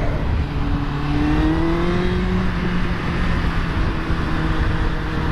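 Yamaha FZ1 inline-four motorcycle engine and exhaust under way, the revs climbing gently for about two seconds and then holding steady at cruise.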